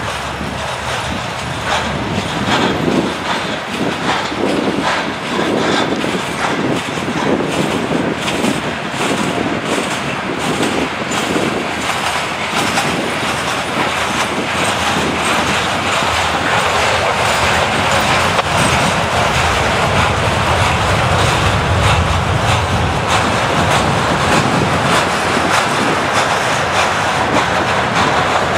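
Freight train cars, covered coil cars and loaded gondolas, rolling past on steel rails. Over the first half the wheels clack rhythmically over rail joints; in the second half this gives way to a steadier, slightly louder rolling noise.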